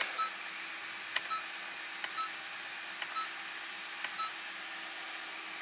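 A car's dashboard chime inside the cabin: a short click and a brief high beep, repeating about once a second, five times, over a faint steady hum.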